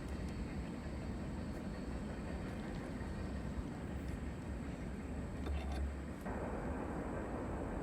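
Freight train's steady low rumble, much quieter than the horn and with no horn sounding, swelling briefly a little past halfway.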